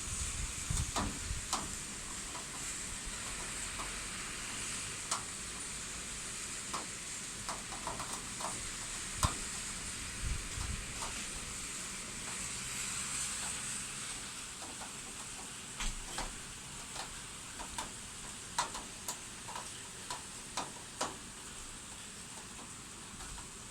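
Steady heavy rain, with scattered sharp taps of drops striking a nearby hard surface.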